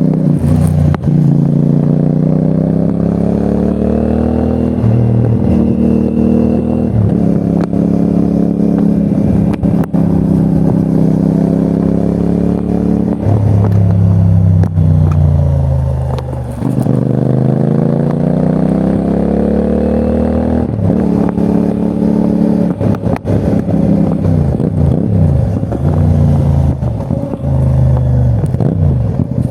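CFMOTO 450NK's 449 cc parallel-twin engine on the move. Its pitch climbs through a few gear changes and holds, falls away for a few seconds as the bike slows around the middle, then climbs again under acceleration and stays lively to the end.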